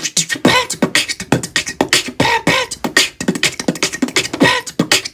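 A person beatboxing: a fast, steady rhythm of mouth clicks and snare-like strokes mixed with short pitched vocal sounds.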